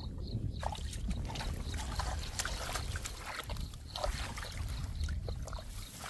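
Splashing and sloshing in shallow muddy water, with scattered clicks, over a low rumble. A short high chirp repeats about three times a second at the start and again near the end.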